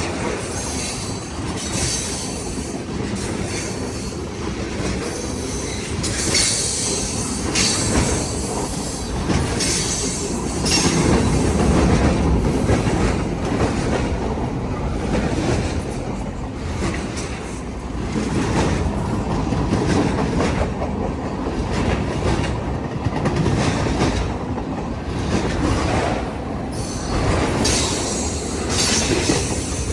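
Freight cars of a long manifest train rolling past: a steady wheel-on-rail rumble with clickety-clack from the wheels over the rail joints and repeated high-pitched wheel squeal.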